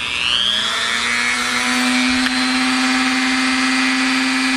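Dremel rotary tool running, its motor whine rising in pitch over the first second or so and then holding steady at speed.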